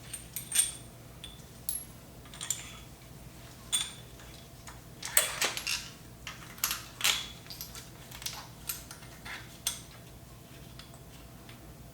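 Small metal hardware clinking and clicking: a bolt and washer being handled and fitted on a steel engine stand, in irregular light taps with a brief cluster of louder clinks about five seconds in.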